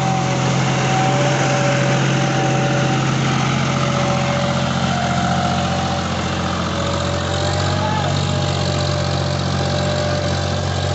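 John Deere 5045 tractor's three-cylinder diesel engine running steadily, with a high whine over the engine note.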